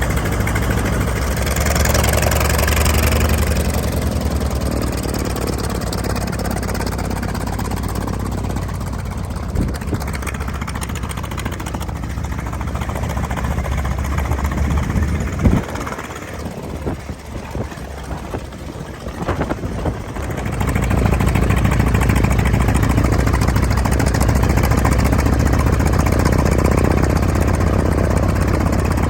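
Light aircraft piston engine running with its propeller turning at low, taxiing power. It fades for a few seconds midway, with a single sharp knock, then comes back louder.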